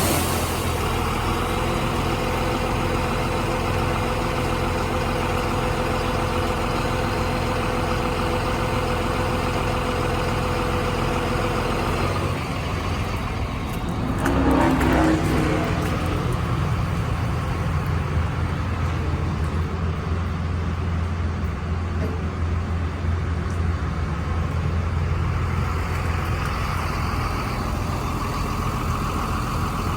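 Sweeper truck running steadily. Its note changes about 12 seconds in, and a short louder burst of noise comes a couple of seconds later before it settles into a different steady, deeper running sound.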